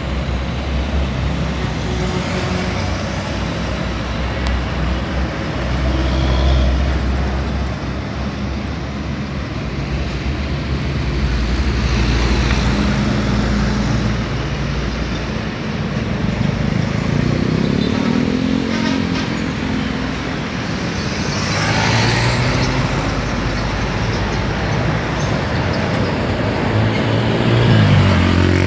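Busy highway traffic with big trucks and cars passing in a steady low rumble. Engine notes rise as vehicles pull away, once about two-thirds of the way through and again near the end.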